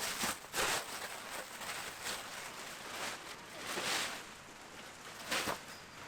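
A few short rustling noises, with no pitch, over a steady outdoor background.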